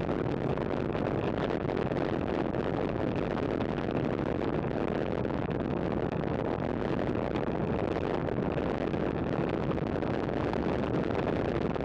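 Steady rush of wind on the microphone together with road and tyre noise from a road bike riding at speed.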